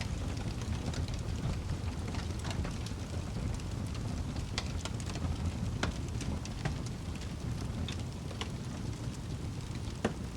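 Wood fire burning in a fireplace: a steady low rumble of the flames with scattered sharp crackles and pops from the logs, the loudest pop near the end.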